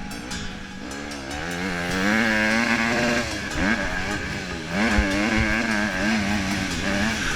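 Honda CRF150 dirt bike's single-cylinder four-stroke engine revving up and down while being ridden: the pitch climbs and holds high for about a second, drops off briefly past the middle, then climbs and holds again, with a sharp knock about two-thirds in.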